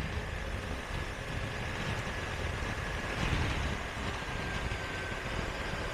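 Motorcycle engine running steadily under way, a low rumble with wind and road noise on the rider's camera microphone and a faint steady whine.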